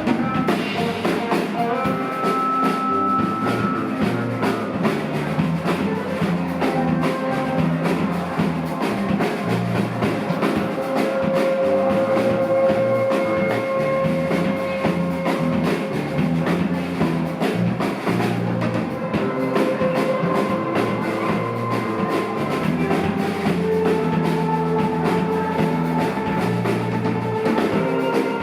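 Live rock band music with no vocals: drum kit and guitar playing an instrumental passage, with long held melody notes.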